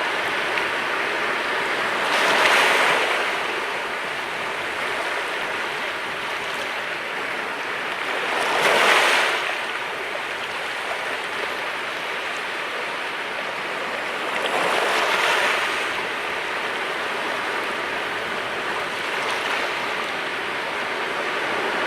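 Sea waves washing on the shore: a steady hiss of surf with three louder breakers about six seconds apart, the middle one the loudest.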